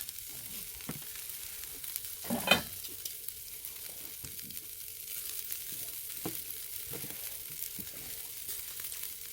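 Pork neck sizzling over charcoal in a brazier, a steady hiss dotted with small crackles and clicks. One brief higher-pitched sound about two and a half seconds in.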